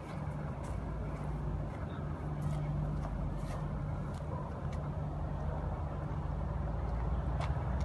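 A motor vehicle's engine running with a steady low hum, with a few faint light ticks above it.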